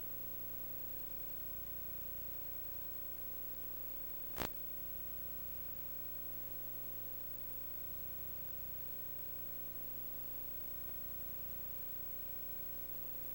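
Steady low hiss and electrical hum with a faint steady tone, broken by one sharp click about four seconds in.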